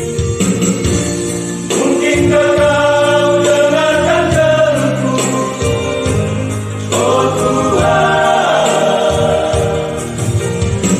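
A vocal group singing a gospel song in harmony with instrumental accompaniment, in two long phrases with a short break between them.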